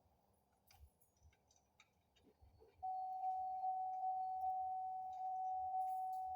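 Near silence with a few faint clicks, then about three seconds in a steady single-pitched electronic tone starts abruptly and holds unchanged for about four seconds.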